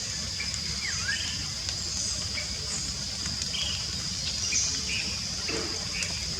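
Wild birds chirping now and then, with one short falling-then-rising call about a second in, over a constant high-pitched insect drone and a steady low rushing noise.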